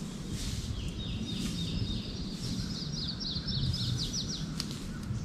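A songbird singing: a few short slurred notes, then a quick run of rapid falling notes, over a low steady rumble.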